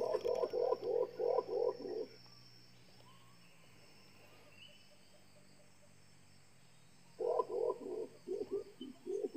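Rapid runs of low, croaking animal calls, about six or seven pulses a second, in two bouts of about two seconds each: one at the start and another beginning about seven seconds in.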